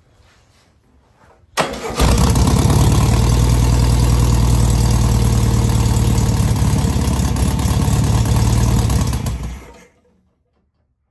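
Rebuilt air-cooled flat-four engine of a 1970 VW Beetle starting: it catches about a second and a half in and runs steadily and loudly for about eight seconds, then the sound stops abruptly near the end.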